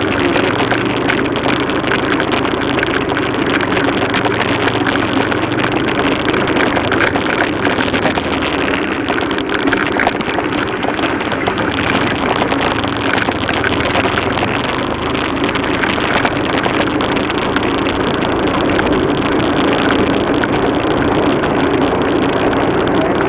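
Motorcycle engine running steadily, with a dense rushing noise over it.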